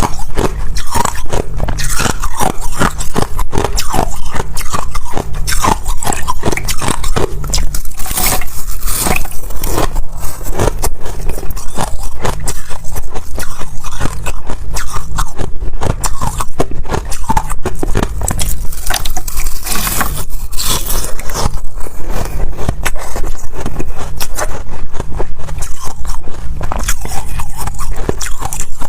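Ice being bitten and chewed: loud, dense, irregular crunching and crackling of ice breaking between the teeth.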